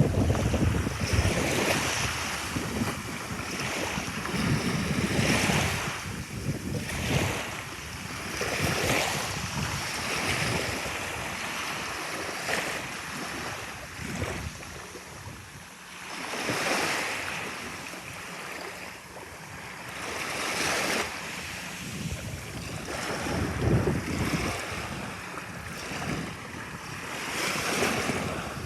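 Sea waves washing in and ebbing, swelling every few seconds, with wind buffeting the microphone.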